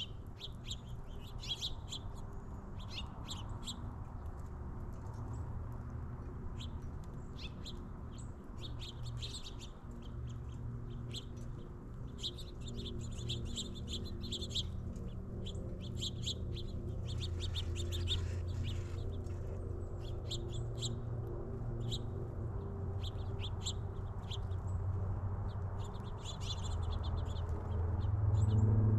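Small songbirds chirping: many short, high chirps in quick runs, over a steady low hum.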